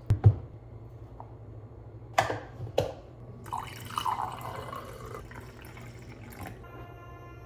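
Water pouring and dripping into a cup or bottle, with a low thump at the start and two sharp knocks about two seconds in.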